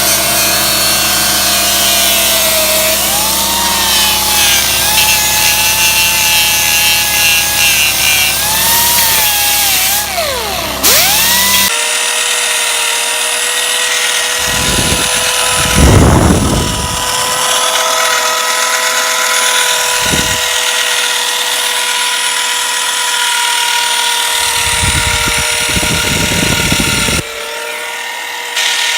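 Power tool cutting bar stock: a loud whine whose pitch sags and recovers as it bites, then steadier running with short grinding bursts. The sound changes abruptly several times.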